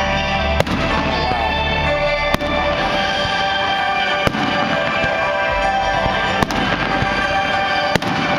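Fireworks bursting overhead, about five sharp bangs a second or two apart, over loud, continuous show music.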